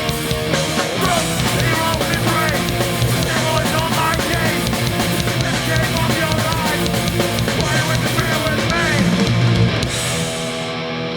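Hardcore punk band playing live at full volume, with distorted electric guitars, bass, drum kit and a singer's voice over them. About ten seconds in the drums and cymbals stop, leaving the guitars ringing out as the song ends.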